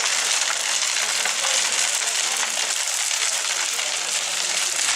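Large open-air bonfire burning, a steady hiss with fine crackling throughout.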